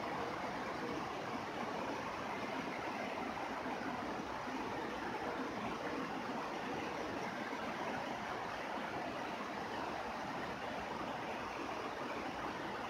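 Steady rain falling: an even hiss of countless drops, with no thunder and no separate knocks.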